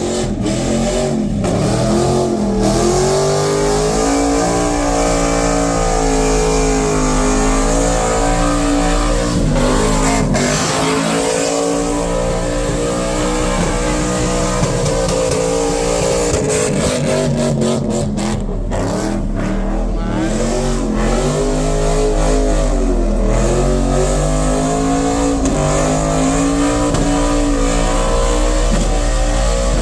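Car engine revving loudly and continuously, its pitch rising and falling every few seconds as the throttle is worked.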